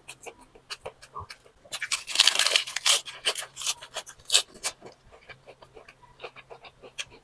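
Close-up eating sounds: chewing crunchy fresh vegetables with boat noodles, with many sharp mouth clicks and crunches. A longer, louder stretch of crunching lasts about a second, starting just under two seconds in.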